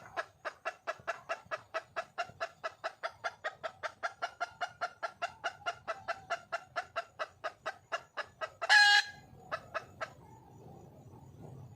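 Wild junglefowl hen calling with a rapid, even run of clucks, about five a second, for eight seconds. Then comes one loud, brief squawk, and a few last clucks before the calling stops. This is the hen's call for a mate.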